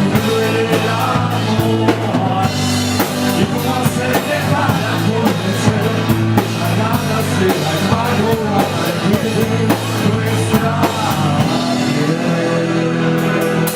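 Live rock band playing, with a drum kit keeping a steady beat over guitars and bass. Near the end the drumming drops away and a chord is held.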